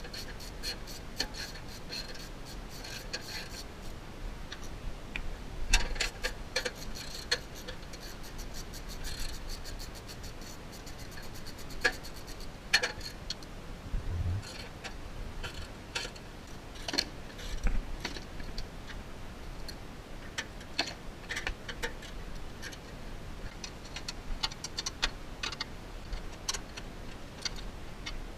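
Ratchet wrench clicking in runs of quick, even ticks, with scattered metal clinks and knocks in between.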